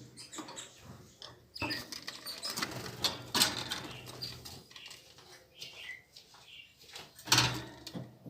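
Small cage birds fluttering and scrabbling about the cage, with uneven bursts of wing flapping and rustling, loudest about three seconds in and again near the end.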